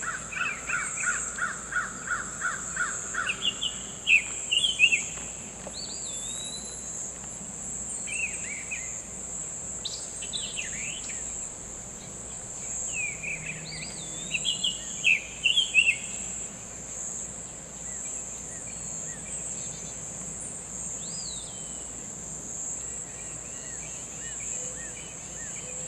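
Wild birds calling and singing over a steady, high-pitched insect drone. It opens with a quick series of about ten repeated notes, followed by scattered short chirps and whistled phrases that come loudest twice, around four seconds in and again in the middle.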